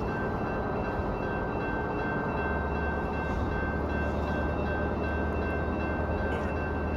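Amtrak ALC-42 Charger diesel-electric locomotive (Cummins QSK95 V16) idling at the platform: a steady engine rumble with a thin, steady high-pitched whine. The low hum grows stronger a couple of seconds in.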